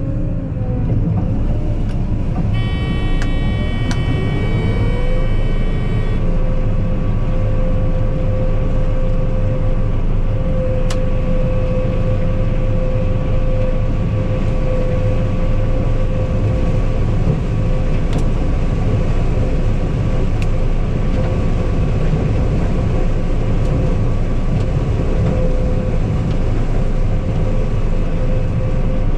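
Heavy diesel farm vehicle engine running under way with a steady low rumble; its note rises a few seconds in, then holds steady, with a brief high-pitched whine at about the same time.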